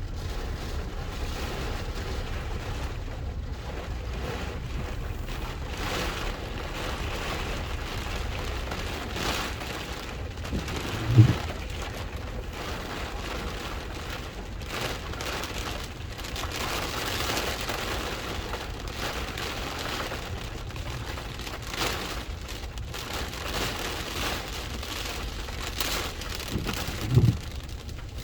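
Hurricane rain and wind, a steady rushing that swells and eases in gusts over a low rumble. Two short, louder low sounds break through, one about eleven seconds in and one near the end.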